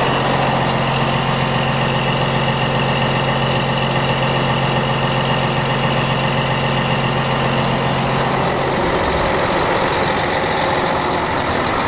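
Volvo D12 inline-six diesel in a 2000 Volvo semi truck idling steadily, left running to charge weak batteries. The strong low hum drops away about nine seconds in while the engine keeps running.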